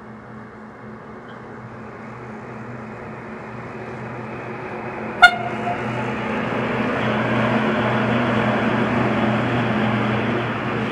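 Freight train approaching and passing, its running noise and low steady hum growing louder over several seconds and then holding. About five seconds in, a very short, sharp toot of the train's horn.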